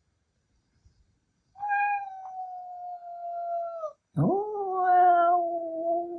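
Ragdoll cat giving a long, drawn-out howling meow, wolf-like. It is followed by a second long, lower howl that swoops up quickly at its start.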